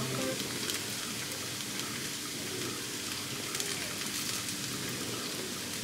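Zucchini fritters frying in oil in a high-sided casserole pan: a steady sizzle with faint crackles.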